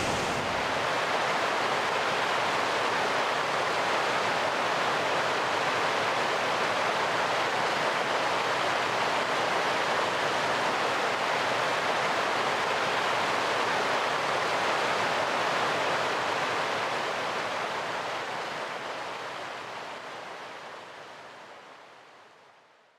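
Mangaturuturu River rushing: a steady wash of flowing water that fades out over the last several seconds.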